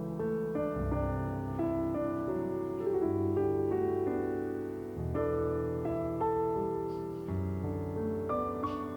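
Gentle background piano music: sustained chords and melody notes that change every second or so.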